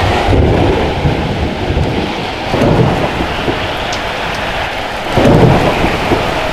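Thunderstorm: steady heavy rain with rolls of thunder, three low swells of rumble at the start, about two and a half seconds in, and about five seconds in.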